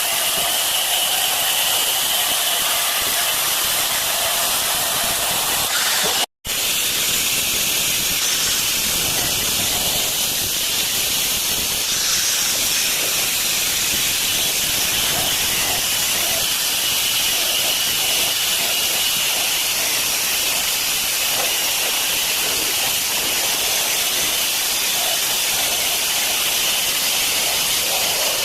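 Water running steadily from a newly fitted tap into a sink, a constant rushing hiss that cuts out for an instant about six seconds in.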